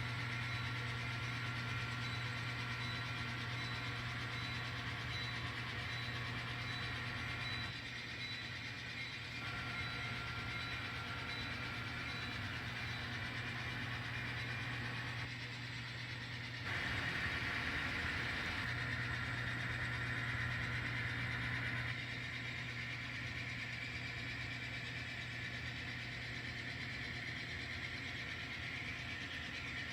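N scale model locomotive running on the layout, a steady hum that shifts abruptly in level and tone several times as the train is moved around the track.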